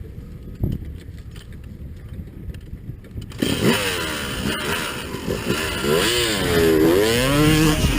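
Yamaha YZ250 single-cylinder two-stroke dirt bike engine, muffled and low at first, then from about three seconds in revving hard, its pitch rising and falling again and again as the throttle is worked.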